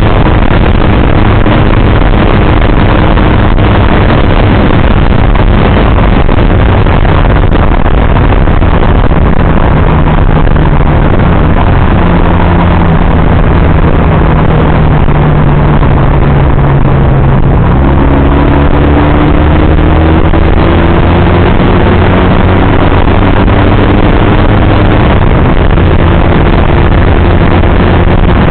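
Motorcycle engine running under way, its note slowly rising and falling as the speed changes, under loud steady wind rush on the microphone.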